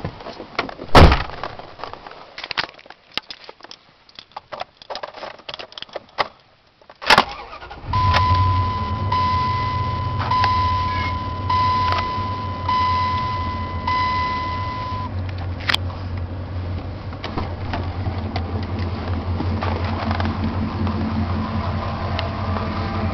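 Clicks and jangling keys, then about eight seconds in the 1999 Dodge Ram's 5.2 Magnum V8 starts and settles into a steady idle through a knock-off V Force aftermarket exhaust, with a low rumble. A repeating warning chime rings for about seven seconds after the start.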